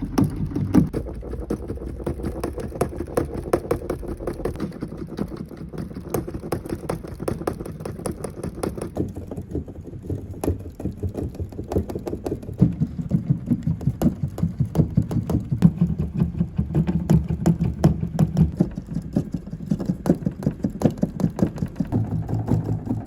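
Mechanical knocking of digital piano hammer-action keys being played rapidly: a dense run of dull key thumps and clacks. It changes in character a few times, as the keyboards of different brands are tried one after another.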